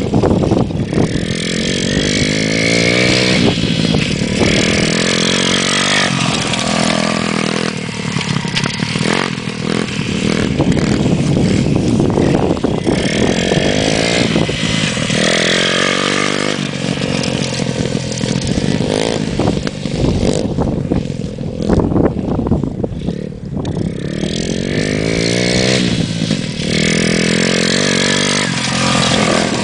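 Motocross bike engine being ridden hard, revving up and falling back over and over, its pitch climbing steeply with each pull of the throttle and dropping off between.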